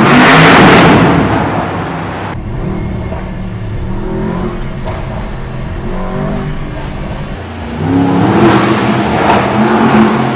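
Mercedes-AMG S63 E Performance's twin-turbo 4.0-litre V8 accelerating hard, loud at the start and again from about eight seconds in, with a calmer stretch in between.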